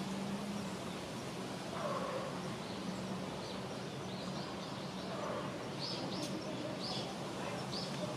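Steady low hum of outdoor ambience, with a small bird chirping over and over, in short high chirps about once a second, through the second half.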